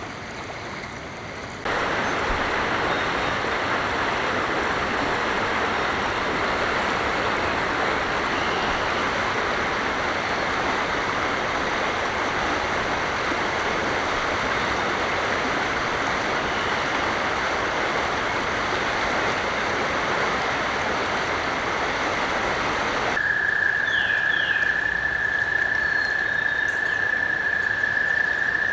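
An even, rushing wash of sound cuts out abruptly about 23 seconds in. An American toad's long, steady, high-pitched breeding trill then takes over, with a few brief bird chirps above it.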